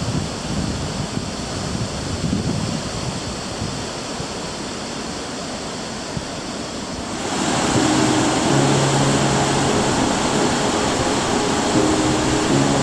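Ocean surf: a steady wash of breaking waves. About seven seconds in, the noise turns louder and brighter, and a few held low tones join it.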